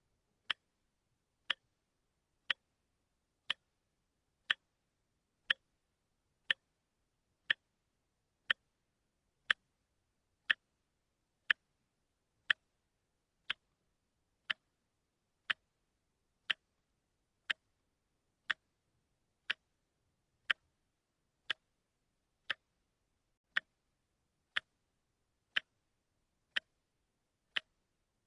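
A watch ticking steadily once a second: single sharp, evenly spaced ticks with silence between them.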